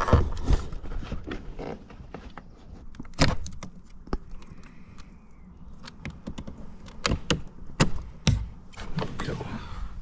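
Scattered plastic clicks and knocks from hands working on a car door's inner trim panel and its wiring connectors, as the door card is unclipped and lifted away.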